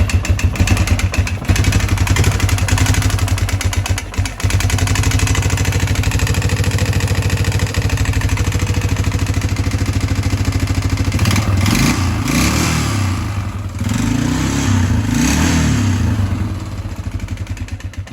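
1997 Yamaha Big Bear 350 ATV's single-cylinder four-stroke engine running with a pretty loud, bad valve tick clattering over the idle. It is revved up and down twice in the second half.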